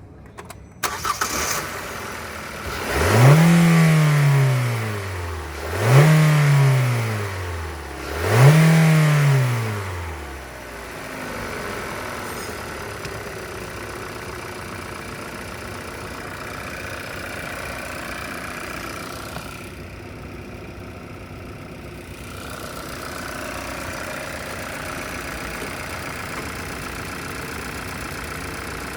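A 2020 Hyundai Tucson's engine starting about a second in, then revved three times in quick blips, each rising sharply and falling back, before it settles into a steady idle.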